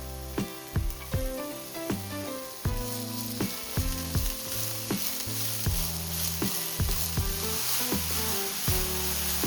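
Green peppers stir-frying in sesame oil in a pan: a sizzle that grows louder about three seconds in, with the stirring utensil knocking against the pan two or three times a second.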